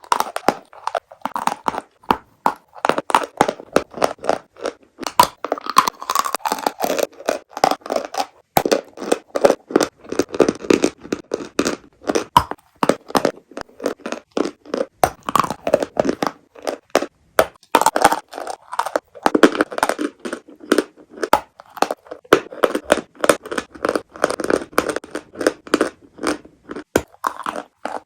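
Close-up crunching of edible chalk and clay being bitten and chewed: a dense run of sharp crackling crunches with brief pauses.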